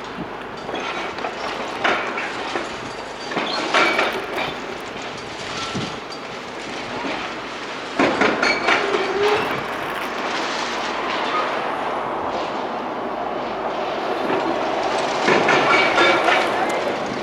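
Demolition machinery working on a building: a steady mechanical rumble with repeated bursts of clattering and crunching rubble, loudest about 8 seconds in and again near the end.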